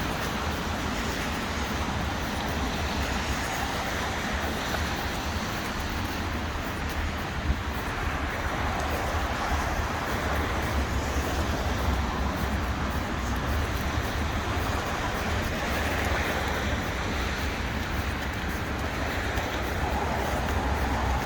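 Steady city street ambience: road traffic running past, with a constant low rumble underneath.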